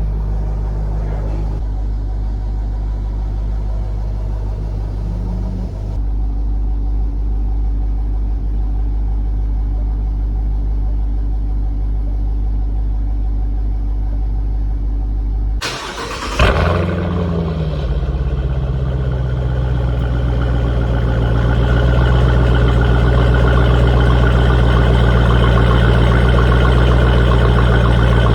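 Jeep Grand Cherokee Trackhawk's supercharged 6.2-litre V8, breathing through a Roar Racing exhaust, idling steadily. About halfway through it cuts out briefly, then starts again with a sharp flare that falls away into a steady, louder idle.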